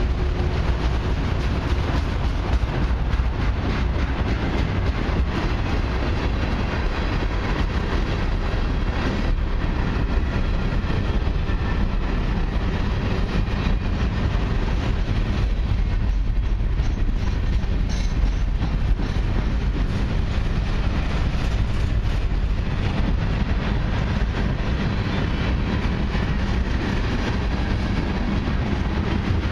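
Freight cars of a long mixed train rolling past at close range: autorack, covered hopper and tank cars, their steel wheels running on the rails. A steady low rumble with a constant clatter of wheel clicks.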